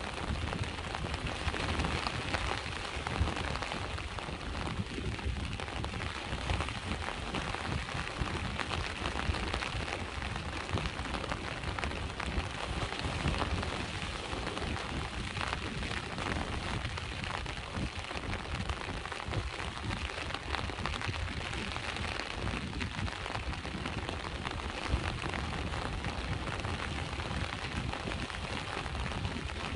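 Steady rain falling, with the low, continuous rumble of sea waves underneath.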